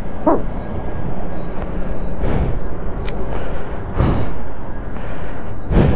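Kawasaki Ninja 500's parallel-twin engine idling steadily, with gusts of wind buffeting the microphone about two, four and six seconds in.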